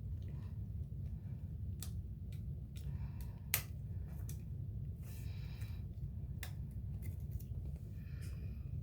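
The small scissors of a Swiss Army knife being worked, giving a few sharp metal clicks spaced irregularly, the loudest about three and a half seconds in, over a steady low hum.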